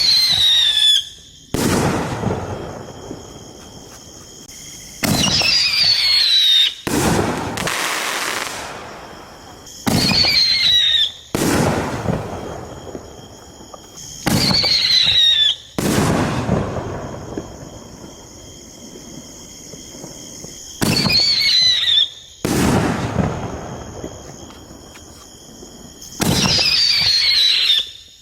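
7-inch canister firework shells fired one after another from mortar tubes, about six in all, one roughly every five seconds. Each goes off with a whistle falling in pitch for about a second, then a sharp boom that rumbles and fades over a few seconds.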